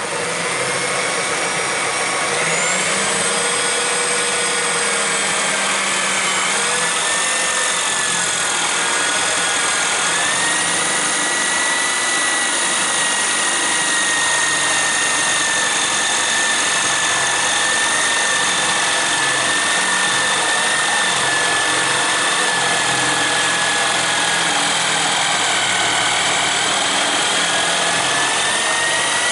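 Hand-held electric drill running in a drill-press guide, boring a hole into wood. Its motor whine steps up in speed a few times in the first ten seconds, then holds steady with a slight sag in pitch.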